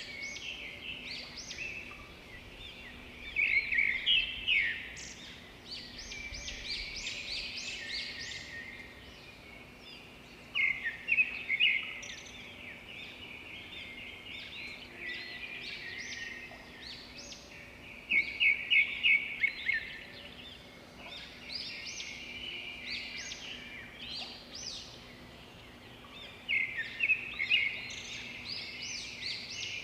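Small birds chirping and singing in repeated bursts of quick high notes and short trills, over a faint steady hum.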